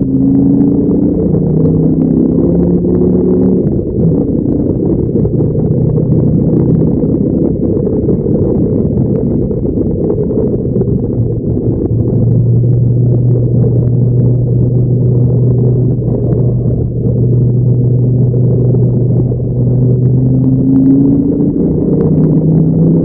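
Dodge Viper SRT10's V10 engine running on a race track. Its note rises in the first few seconds, settles to a lower, steadier drone through the middle, and climbs again near the end as the car accelerates.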